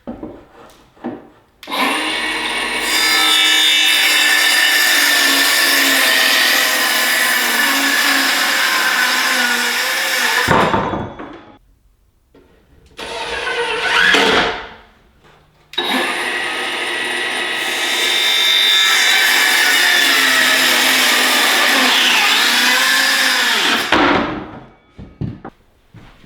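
Electric power saw cutting 1x12 pine boards: two long cuts of about eight seconds each, each ending as the motor winds down, with a short burst of the saw in between.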